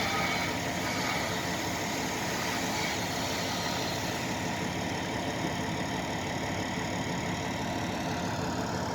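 Heavy engine idling steadily, an even running sound that does not change speed.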